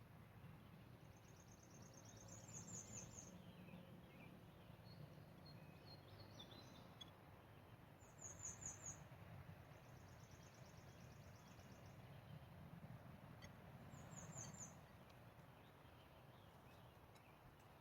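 Faint songbird singing: a short, high-pitched trilled phrase repeated three times, roughly six seconds apart, with a few softer chirps between, over a low, steady outdoor rumble.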